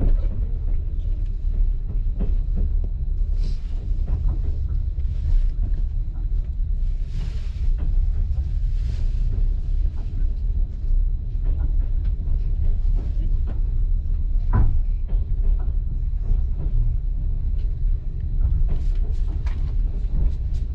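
Train running, recorded from on board: a steady low rumble with scattered clicks and knocks from the wheels on the track, and one sharper knock about two-thirds of the way through.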